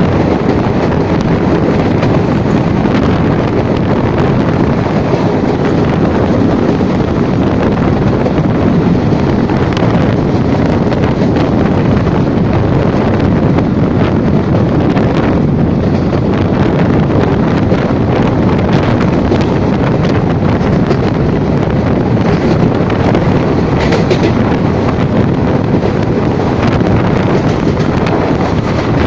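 Loud, steady wind noise on the microphone over the running noise of a moving train.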